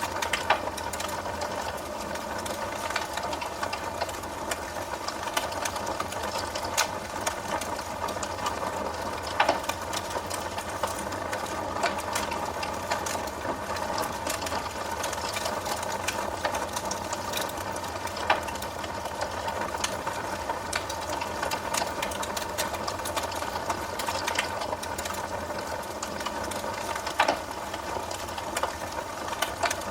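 Wood fire burning in a fireplace: a steady hiss of flame with dense, rapid crackling and a few louder pops of burning wood.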